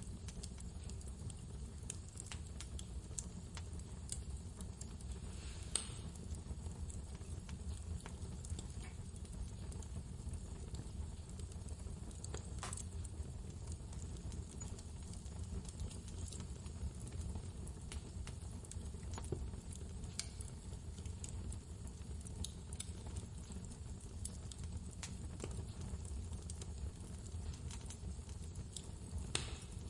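Wood fire crackling with scattered small snaps and a few louder pops, over a steady low rumble of blizzard wind.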